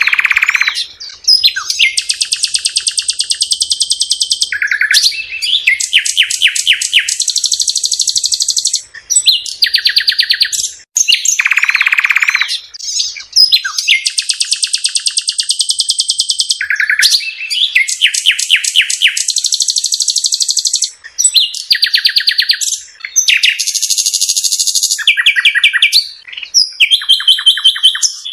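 A bird singing a loud, long, varied song of rapid high-pitched trills and buzzy phrases, with short breaks between phrases.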